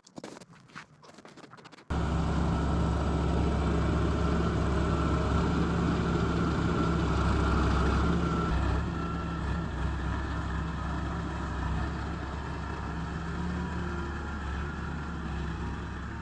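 Yanmar VIO50 mini excavator's diesel engine running steadily. It comes in suddenly about two seconds in, after a few faint knocks, and eases slightly about nine seconds in.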